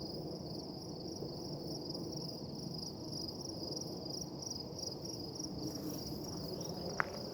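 Insects chirping in a steady, fast-pulsing high trill, over a low even noise. A single sharp click comes about seven seconds in.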